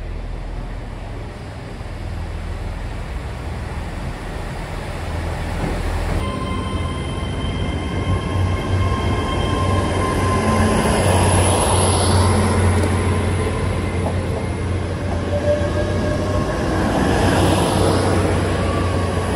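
Trains at a station platform. First a yellow diesel unit draws in. Then, after a cut, a dark green intercity train runs close past, with steady high whining tones over rumbling wheel noise that swells twice as the bogies go by.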